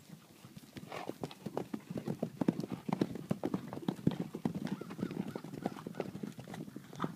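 Hooves of several horses moving off together: many overlapping hoof strikes that build up about a second in and are loudest in the middle.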